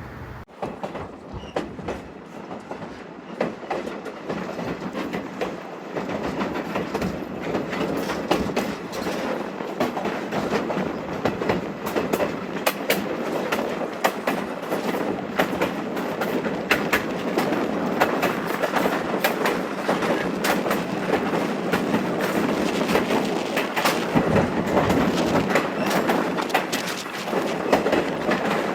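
Railroad car rolling along the track, its wheels clicking and knocking over rail joints above a steady running noise that slowly grows louder.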